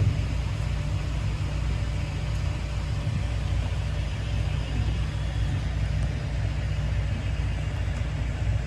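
Motorboat engine running steadily, an even low drone with no change in pitch.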